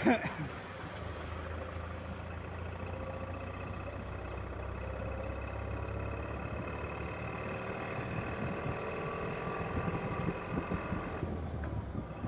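An engine running steadily, its note slowly rising, with its higher tones dropping away about 11 seconds in. A sharp knock right at the start.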